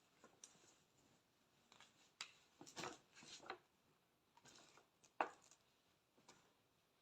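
Faint, scattered rustles and clicks of gift packaging being handled, with a sharp click about five seconds in.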